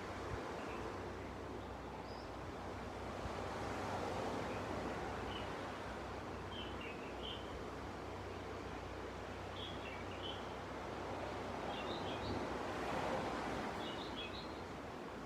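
Gentle sea waves washing on a beach, swelling about four seconds in and again near the end, with small birds chirping in short clusters of high notes several times.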